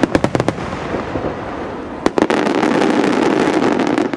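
Fireworks barrage: a quick run of sharp bangs, then a louder bang about two seconds in followed by a dense, continuous rush of noise, with a few more bangs near the end.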